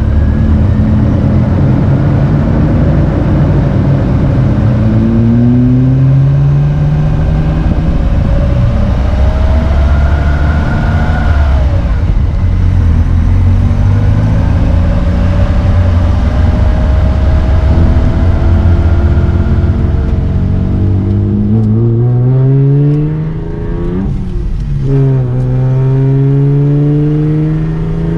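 1995 Ford Probe's 2.5-litre KL-DE V6 accelerating hard through a loud, barely muffled exhaust. The engine note climbs in pitch and drops back at each upshift, several times over.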